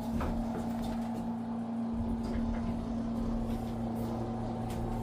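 A steady low machine hum holding one even pitch, with a few faint soft clicks.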